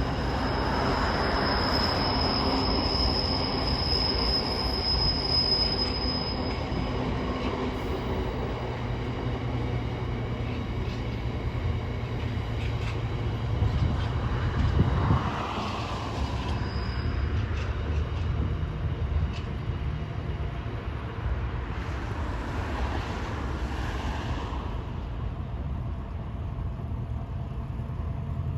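A freight train's wagons roll steadily past with a continuous low rumble. About a second in, a thin, high wheel squeal starts and holds for about five seconds, and the sound swells twice later on.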